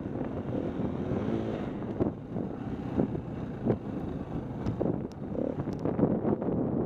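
Motocross dirt bike engine running, partly buried under wind buffeting on the microphone, with a few sharp knocks about two, three and four seconds in.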